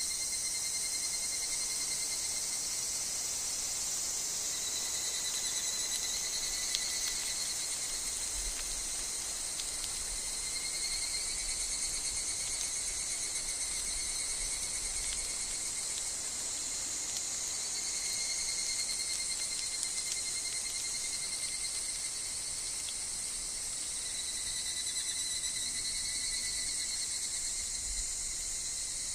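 Dense, steady chorus of insects in a summer forest, high-pitched and unbroken, with two thin steady tones lower down.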